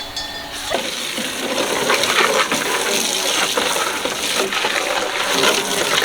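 Steady rush of running, gushing water that starts about a second in.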